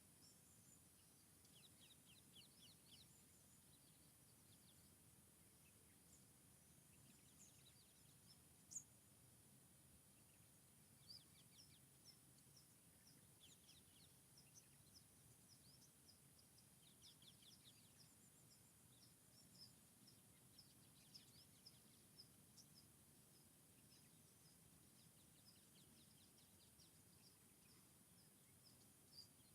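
Faint birdsong: scattered high chirps and short rapid trills, with a run of repeated chirps through the second half, over faint steady background noise.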